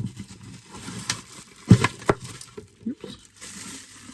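Small items and packaging being handled and knocked on a table: a few clicks and knocks with light rustling, the loudest a sharp knock a little under two seconds in.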